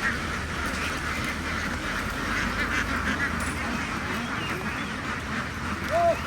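A large flock of farm ducks quacking all at once in a dense, continuous chorus of overlapping calls. One louder single quack stands out near the end.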